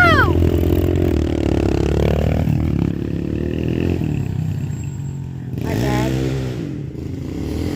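Several small pit-bike engines accelerating off the start of a race, their pitch climbing and then fading as the bikes ride away. About six seconds in, a bike's pitch rises and falls once more.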